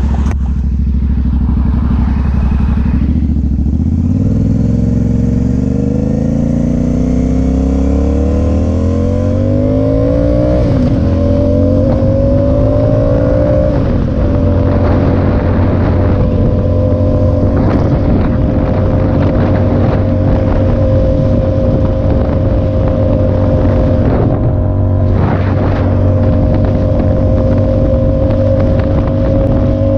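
Motorcycle engine pulling away. It starts low and steady, rises in pitch as the bike accelerates, and drops twice as the rider shifts up, about ten and fourteen seconds in. After that it holds a steady cruising note.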